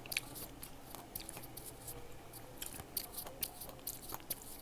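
Close-miked chewing of fresh fruit: an irregular run of small, crisp crunching clicks.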